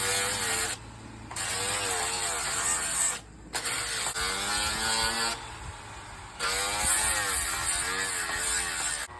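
Small electric power sander running against a 3D-printed plastic part, its motor pitch dipping and rising as it is pressed and eased, with a hiss of sanding and a few short breaks.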